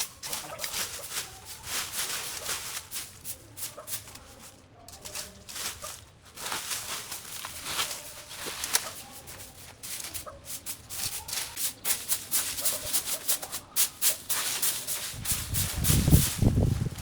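Dry vegetation rustling and crackling as it is pulled and handled, in a dense run of small cracks and rustles, with a low rumbling thump near the end.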